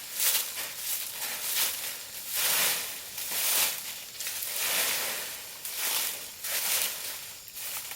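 Dry plant leaves rustling and crackling as they are handled, in repeated bursts about a second apart.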